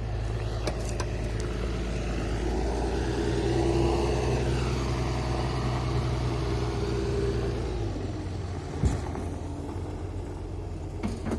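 A large vehicle's engine running with a steady low hum. A higher steady whine rides over it for a few seconds midway, and the engine eases off about eight seconds in. A single sharp knock sounds about a second later.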